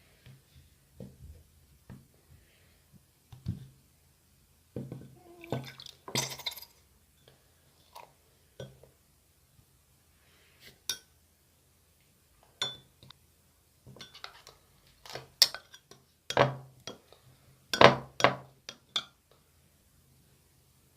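Clear, colourless slime with star-shaped toppings being squeezed and poked by hand, giving irregular sticky pops and wet clicks. The pops are loudest in a run about three-quarters of the way through.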